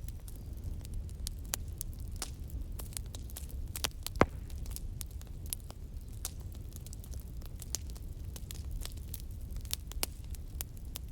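Wood fire crackling: irregular sharp pops and snaps over a steady low rumble of the burning, with one louder pop about four seconds in.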